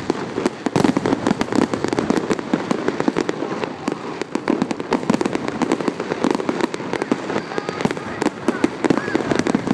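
New Year fireworks display going off in a dense, unbroken stream of sharp bangs and crackles.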